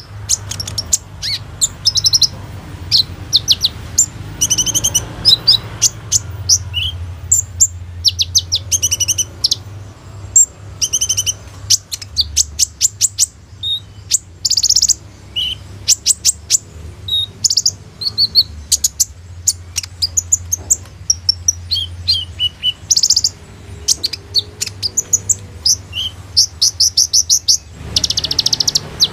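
Olive-backed sunbird (kolibri ninja) singing a fast, varied song of high chirps and rapid trills, in bursts that follow each other closely, with mimicked phrases of other birds worked in. A low steady hum lies underneath.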